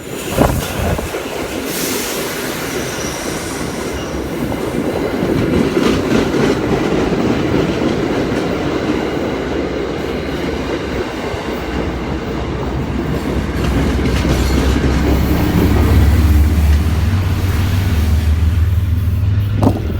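MBTA commuter rail train passing close by: wheels rolling on the rails with a clickety-clack and some wheel squeal. In the second half the diesel locomotive's deep engine rumble builds up and becomes the loudest sound.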